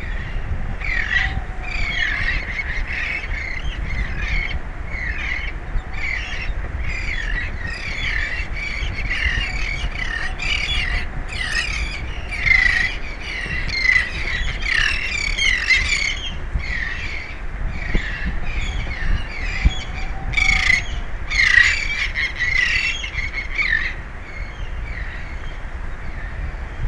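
A flock of birds calling, many harsh, overlapping squawks in quick succession that thin out near the end, over a steady low rumble of wind and sea.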